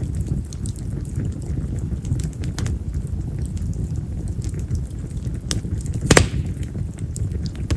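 Wild mountain cherry (yamazakura) firewood burning in a bonfire: a low rumble of flame with scattered small crackles and one loud, sharp pop about six seconds in.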